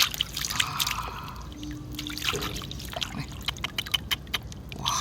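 Shallow floodwater sloshing and trickling as hands move through it, with many small splashes and sharp little clicks and taps.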